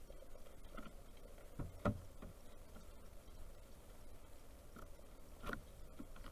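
A few irregular knocks and taps at a bird feeder: a cluster about two seconds in, the loudest of them sharp, and another single knock near the end.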